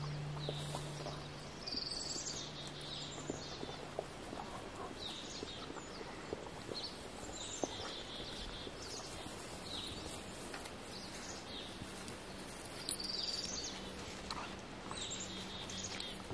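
Woodland birds singing, short chirps and trills repeating about once a second, with a few faint ticks. A low steady hum fades out about four seconds in.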